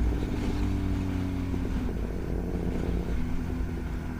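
Suzuki GSX-S1000's inline-four engine through a Yoshimura R11 straight-pipe exhaust, running on the road. Its pitch falls gently over the first second and a half as the bike rolls off, then holds steady, over a low wind rumble.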